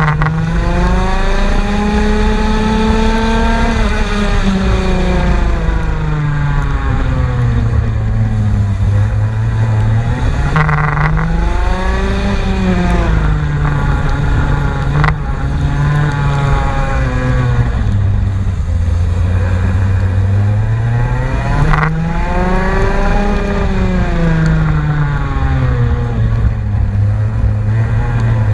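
Race car engine running hard, its pitch climbing and falling again and again as it accelerates and slows, with a few short sharp cracks along the way.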